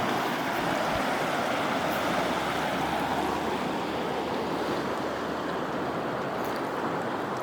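Kern River water rushing steadily over rocks, a constant even wash with no change in level.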